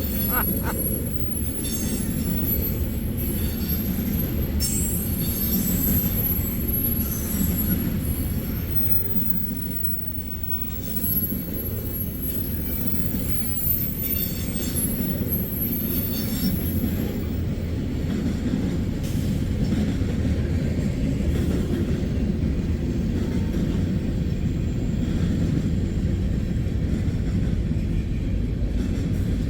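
Freight train cars rolling past with a steady rumble. There is thin, high-pitched wheel squeal through roughly the first half.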